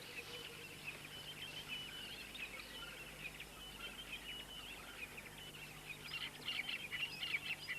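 Savanna ambience of small birds chirping and trilling, growing busier near the end, over a faint steady low hum.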